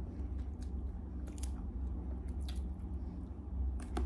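A person pulling apart a stink bean (sato) pod by hand, then chewing and biting close to a clip-on microphone, with scattered small crunches and clicks.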